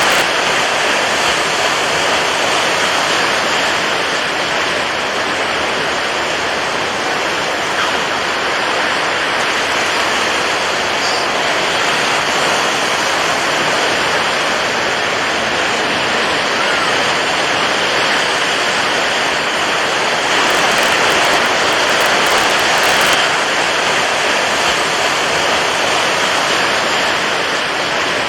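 Steady rushing water: an even, continuous noise without the rise and fall of separate breaking waves.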